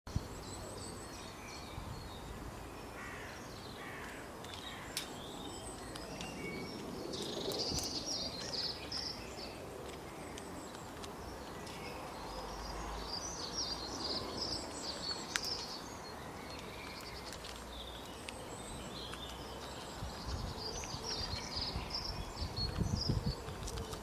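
Small birds chirping in several short bouts of song over a steady outdoor background hiss, with a few sharp clicks and a low rumble building near the end.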